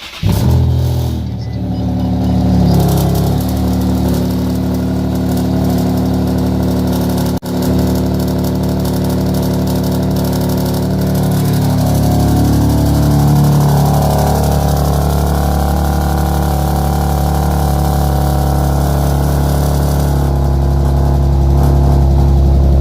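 Infiniti G37xs's 3.7-litre VQ V6 catching on a cold start through a straight-piped exhaust with a high-flow resonator, then holding a loud, steady fast idle. The straight pipe gives it a raw, loud exhaust tone that the owner calls crazy-sounding.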